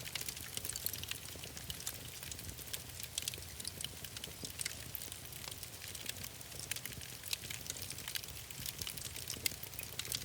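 Wood fire crackling, with frequent small sharp pops over a steady hiss and a low rumble.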